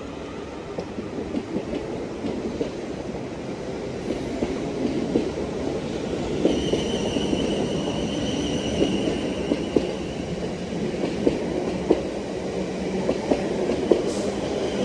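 Class 450 and Class 444 Desiro electric multiple units running past on departure, a steady rumble growing louder, with wheels clicking over rail joints. A steady high electric whine joins about six and a half seconds in.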